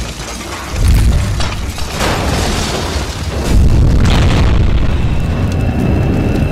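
A string of loud booms and explosion sound effects. Several blasts hit in quick succession over a deep rumble.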